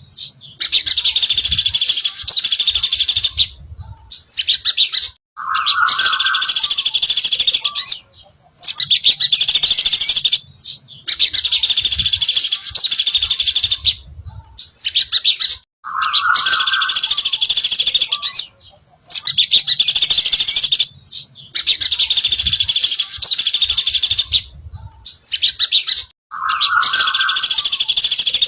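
A songbird sold and kept in Indonesia as the sogon dasi trotol singing rapid, high-pitched chattering phrases of a few seconds each with short pauses between, with a brief lower note about every ten seconds.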